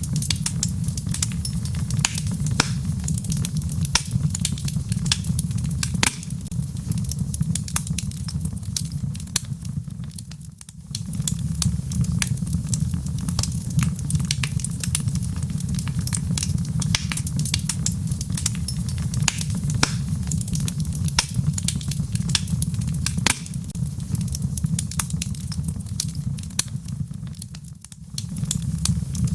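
Wood fire of burning logs crackling, with frequent sharp pops and snaps over a steady low rumble of flames. The rumble briefly drops away twice, about ten seconds in and near the end.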